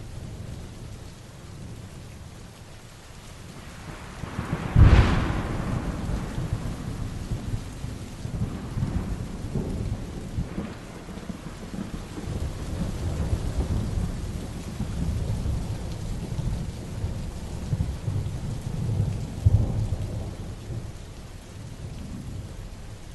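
Heavy rain falling steadily, with a sharp thunderclap about five seconds in that rolls on as a long low rumble, swelling again near the end.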